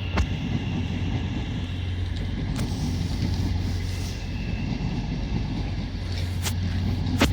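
Trains at a station platform: a steady low hum and rumble with a faint high whine, and a couple of faint clicks.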